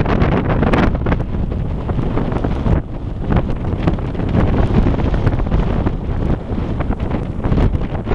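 Strong gusting wind buffeting the microphone: a loud, low rumbling rush that swells and eases with the gusts, dipping for a moment about three seconds in.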